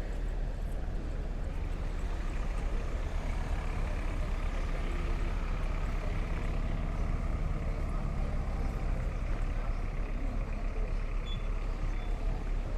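A heavy road vehicle's engine running with a steady low rumble.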